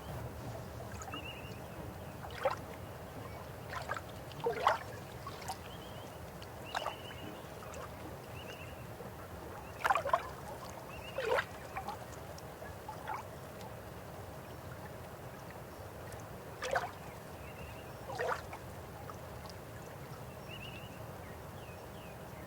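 River water flowing over a low steady rumble, with irregular gurgles and plops that each drop in pitch, the loudest pair about ten seconds in. Faint short high chirps sound now and then.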